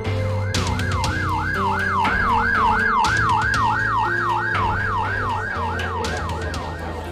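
Police siren yelping, a fast rising-and-falling tone repeating about two and a half times a second, fading in about half a second in and out near the end, over background music with held bass notes.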